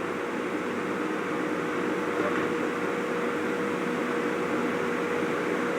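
Steady mechanical hum with a constant whirring noise, like a kitchen fan or extractor, over rendang spice paste frying gently in a pan.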